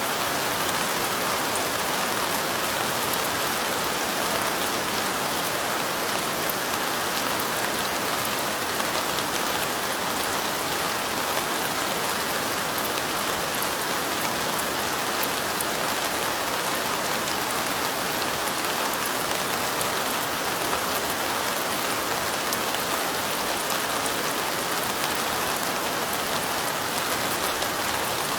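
Steady light rain: an even hiss of falling rain with a fine patter of drops, unchanging throughout.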